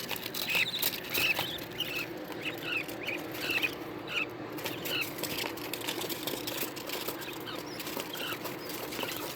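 Small cage birds chirping: many short, high peeps, a few each second, with light clicks and rustling.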